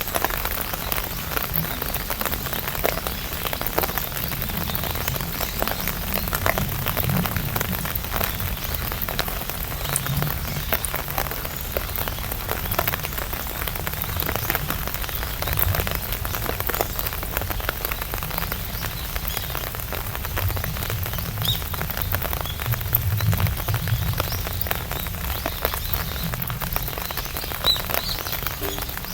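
Rain falling on an umbrella canopy: a dense, steady run of drop hits with no letup.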